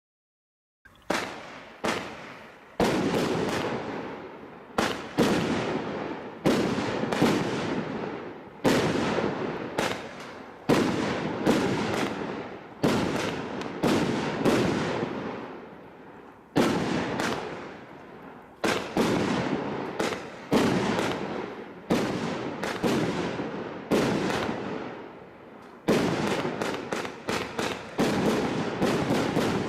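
Thunder Strike 48-shot barrage firework cake firing. Sharp bangs start about a second in and come every one to two seconds, each trailing off, then crowd closer together near the end.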